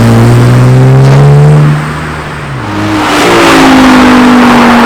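A modified car's engine accelerating hard, rising in pitch, then backing off suddenly just under two seconds in. A moment later an engine revs up again and holds a steady note.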